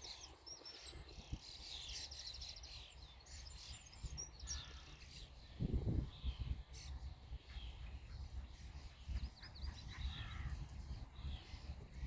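Several birds chirping and trilling in an overlapping chorus, with short, rapid calls throughout. A brief low rumble comes about six seconds in.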